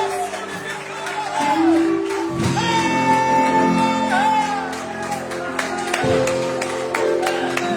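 A church orchestra of strings and wind instruments playing, with held notes, some sliding pitches and regular light percussion strokes.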